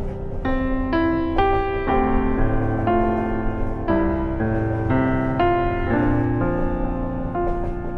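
Calm piano music: a melody of single notes, one about every half second, over held low tones.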